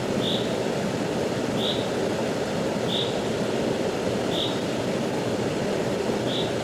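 Rushing river water, a steady full rush. A short high chirp repeats over it about every second and a half, five times.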